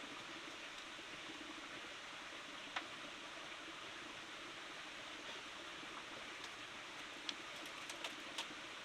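Steady rush of a forest stream's flowing water, with a few small sharp clicks about three seconds in and a cluster of them near the end.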